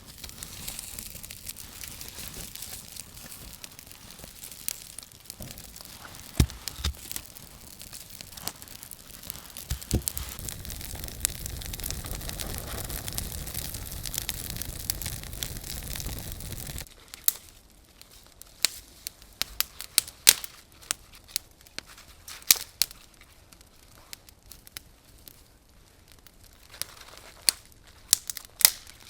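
Wood fire crackling with scattered sharp pops over a steady hiss. The hiss cuts off suddenly about two-thirds of the way in, leaving only sparse, sharp pops.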